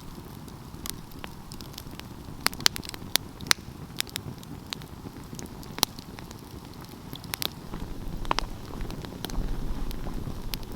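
Wood fire crackling: irregular sharp pops and snaps over the low steady rush of the flames. A low rumble grows louder about eight seconds in.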